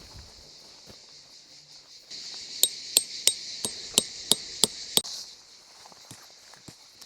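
Metal tent stakes being hammered into the ground: eight sharp, ringing strikes at about three a second, starting a little over two seconds in and stopping about five seconds in.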